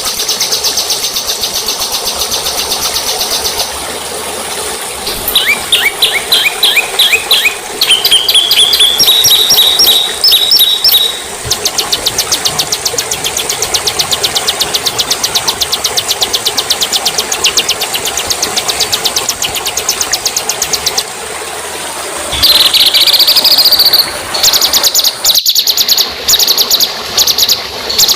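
Recorded songbird calls following one another: a fast high trill, then a run of quick downward-slurred whistles and trills, a very high continuous trill lasting about ten seconds, and short sharp repeated calls near the end.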